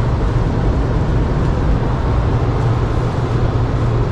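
Steady, even low rumble of a vehicle.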